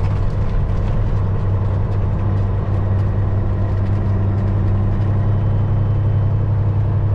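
Semi truck's diesel engine running steadily at low speed, a constant low drone heard from inside the cab.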